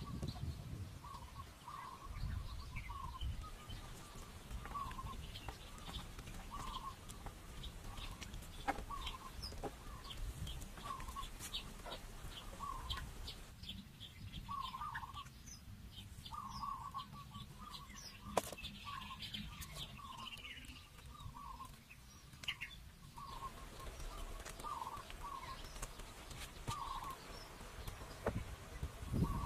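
Birds calling: a run of short calls repeating roughly once a second, with fainter higher chirps over a low rumble.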